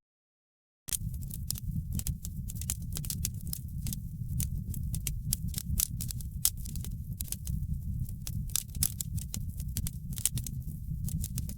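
Wood fire crackling in a fireplace: many irregular sharp pops and snaps over a low steady rumble. The sound cuts out completely for about the first second, then resumes.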